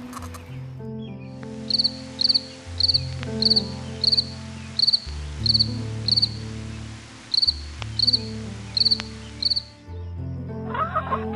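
Insect chirping in short high trills, about two a second, starting a second or so in and stopping near the end, over background music with slow, sustained low notes.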